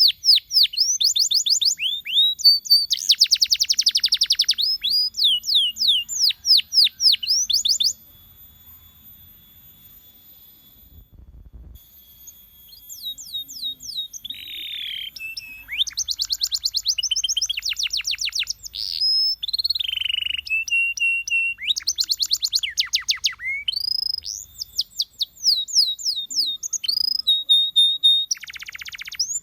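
Canary singing: fast trills of quick, repeated falling notes. It stops for a few seconds about eight seconds in, then resumes with varied trills and a few short held whistles.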